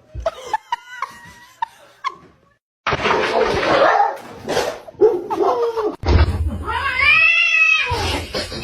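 Short clicks and brief chirps, then louder scuffling noise, and about seven seconds in a cat's long yowl that rises and falls in pitch.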